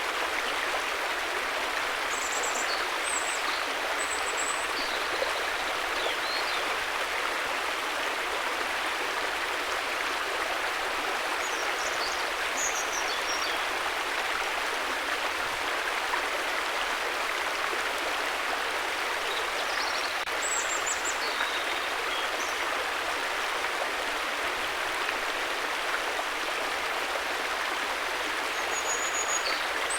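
River water rushing in a steady, even flow. Faint, short, high chirps come through over it a few times.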